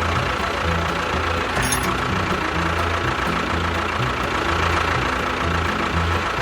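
An engine running steadily with a low, uneven beat, and a thin steady whine above it.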